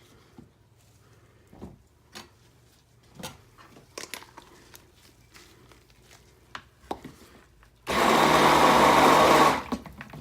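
Light clicks and knocks of containers and utensils being handled, then about eight seconds in a stick blender runs in one short burst of about a second and a half, mixing soap batter.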